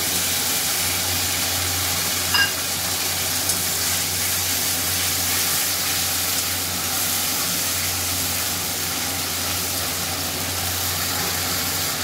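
Ginger and white cumin paste frying in hot mustard oil in an aluminium wok, a steady sizzle as it is stirred with a steel spatula. A light metal clink about two and a half seconds in.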